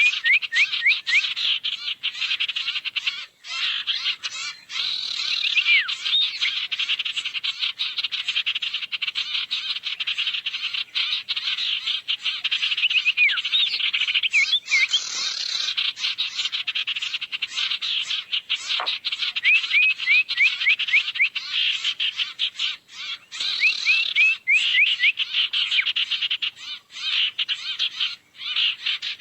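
Sirtu birds calling as a bird-lure recording: dense, continuous high-pitched chattering with rapid clicks and repeated runs of quick downward-sweeping chirps.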